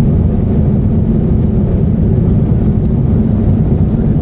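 Steady cabin roar of an Airbus A350-900 in flight: its Rolls-Royce Trent XWB engines and the airflow over the fuselage, deep and even.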